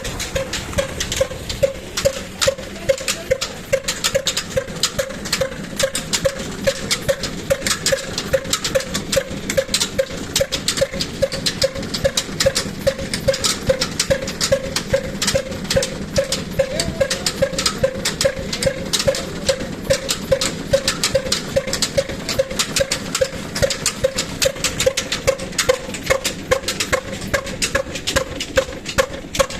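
Old 18 HP diesel engine running steadily under load, driving a well pump, with an even, regular knocking beat.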